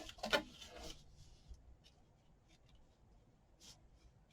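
Faint rustling and a few light ticks of paper scraps being handled on a craft table, after a brief murmur near the start.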